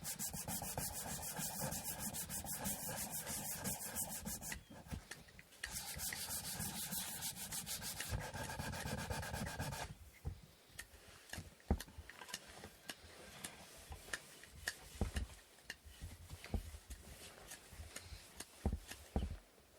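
Wooden inkle loom parts being sanded by hand with sandpaper: quick, even back-and-forth rubbing strokes, with a brief pause about five seconds in, stopping about ten seconds in. After that, scattered light knocks and taps as the wooden pieces are handled.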